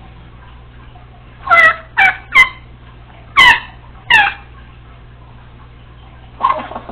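Congo African grey parrot giving five loud, short, harsh calls in quick succession, then a fainter call near the end.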